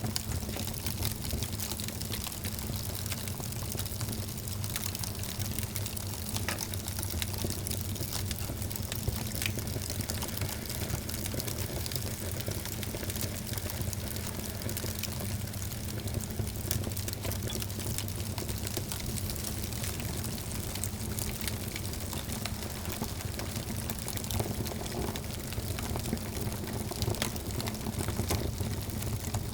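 Wood fire in a fireplace crackling, with many small pops and snaps scattered thickly over a steady low rumble.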